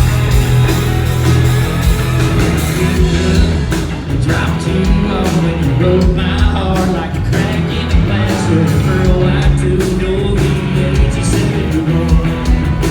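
Country band playing live through a PA system, with singing over the band.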